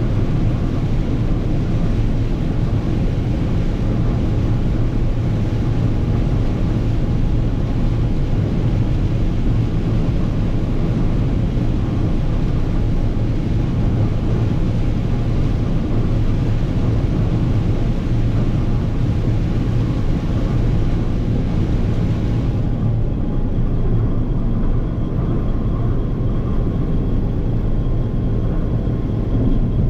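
Massey Ferguson 9690 combine running steadily while shelling corn: a loud, even low drone of engine and threshing machinery. The higher hiss falls away about three-quarters of the way through, while the drone carries on.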